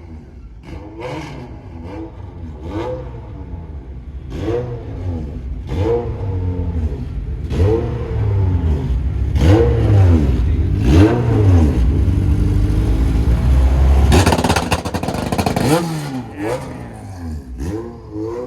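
Car engine revved over and over, each rev rising and falling in pitch about every one and a half seconds and growing louder, followed near the end by a louder, harsher stretch of engine noise lasting about two seconds.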